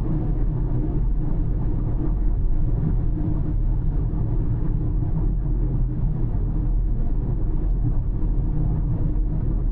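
A car driving on the road: a steady low rumble of engine and tyre noise, with no change in speed or sudden sounds.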